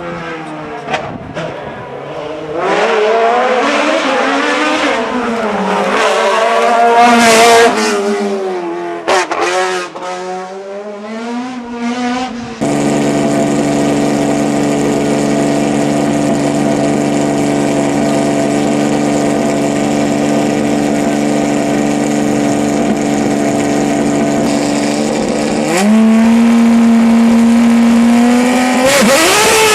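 Hillclimb race car engine revving hard, its pitch climbing and dropping quickly through gear changes. About halfway through there is a sudden cut to a steady, held high engine note. Near the end the note steps up in pitch and then rises sharply as the car accelerates.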